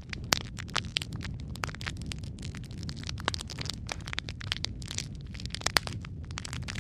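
Wood fire burning in a fireplace: a steady low rumble of flames with frequent irregular crackles and pops, one sharper pop near the end.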